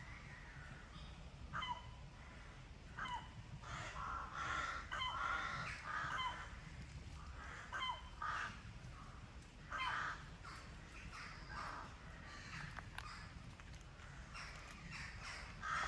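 Birds calling repeatedly: a mix of harsh, crow-like calls and short chirps that slide downward in pitch.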